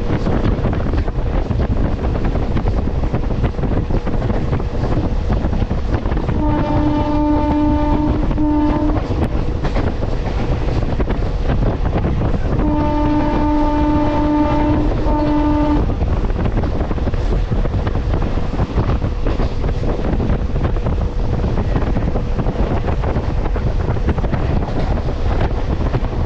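MEMU electric local train running, with a steady loud rumble. A train horn sounds twice, about six and twelve seconds in, each time a long blast followed by a short one.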